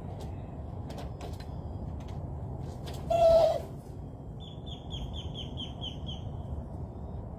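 A songbird sings a run of about eight quick, evenly spaced, downslurred chirps about four and a half seconds in. Before that comes one loud, harsh, half-second sound about three seconds in, the loudest thing here, with a few faint clicks, over a steady low outdoor background.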